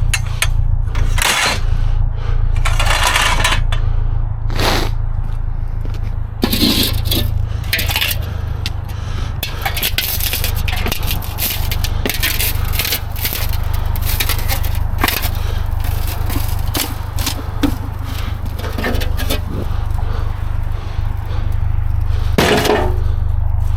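Scrap metal clanking, knocking and scraping as pieces are handled and moved, in many short irregular hits with a louder cluster near the end, over a steady low rumble.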